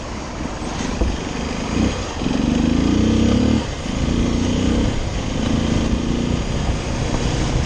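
Motorcycle engine running under way over steady wind noise, its pitch stepping as it pulls, with a short dip a little past halfway that sounds like a gear change.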